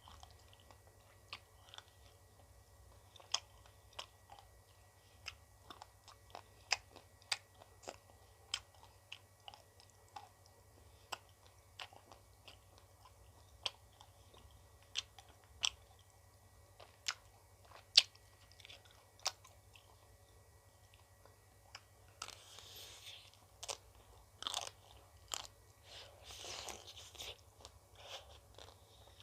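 Close-up crunching and chewing while eating an ice cream bar: sharp crisp bites about once or twice a second. Near the end come a few seconds of softer, noisier sound.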